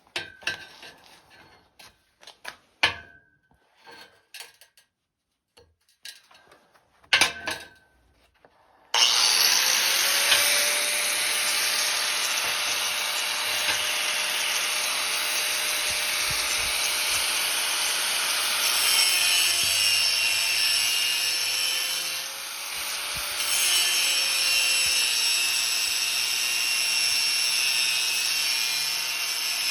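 Scattered handling knocks, a few with a short metallic ring. Then, about nine seconds in, an electric power tool starts up and runs steadily and loudly, its motor pitch dipping for a few seconds near the middle as it takes load.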